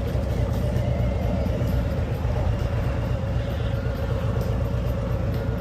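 Harley-Davidson V-twin motorcycle cruising at a steady speed, its engine drone mixed with heavy wind rumble.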